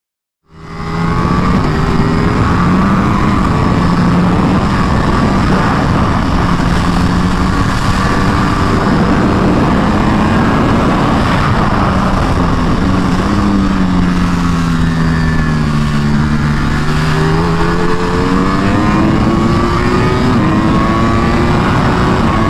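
Sport motorcycle engine pulling hard on a racetrack, its note stepping with gear changes, sinking about two-thirds of the way through and then climbing again, over steady wind rush.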